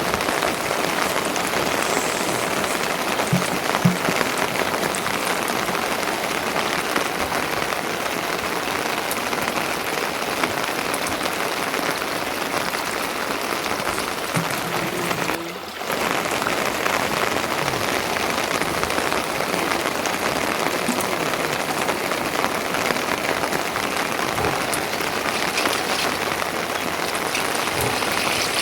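Steady rain falling, an even hiss of drops, with a brief drop in level about halfway through.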